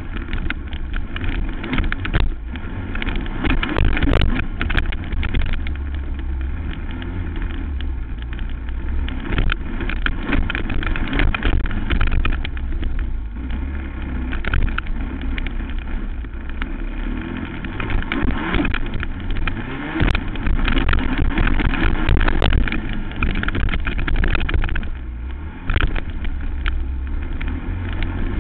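Racing quad's engine running hard and changing pitch as it is ridden around a motocross track, over a heavy low rumble of wind on the microphone. Frequent short knocks run through it.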